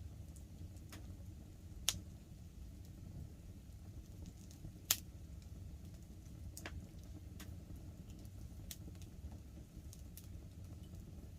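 Wood campfire crackling, with scattered sharp pops and snaps (the two loudest about 2 and 5 seconds in) over a steady low rumble.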